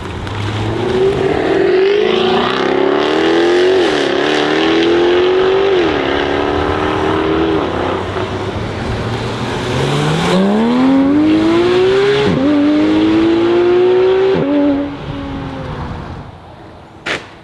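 Jaguar F-Type V8 R's 5.0-litre supercharged V8 accelerating hard through the gears. The engine note climbs and drops at each upshift, twice over, then fades away. One short sharp pop near the end.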